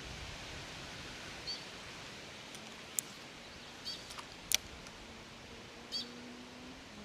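Quiet riverside outdoor ambience with a bird giving a short high chirp about every two seconds. There are two sharp clicks about three and four and a half seconds in, and a faint low steady hum in the second half.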